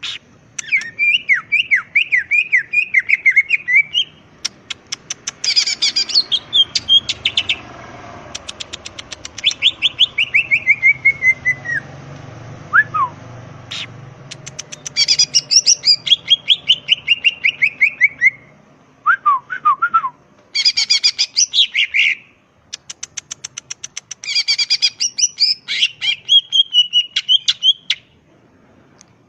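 Cucak ijo (green leafbird) singing vigorously in repeated phrases of rapid chattering notes and falling trills, with short pauses between phrases.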